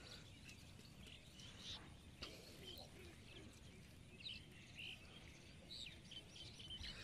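Near silence: faint open-air ambience with small birds chirping now and then.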